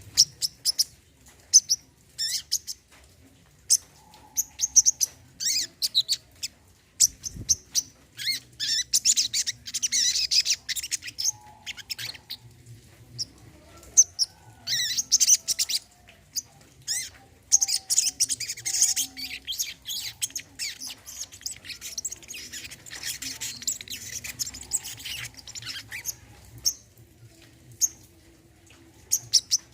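Brown-throated sunbird (sogon) singing: quick high chirps and twittering phrases in bursts, with long dense runs of song in the middle.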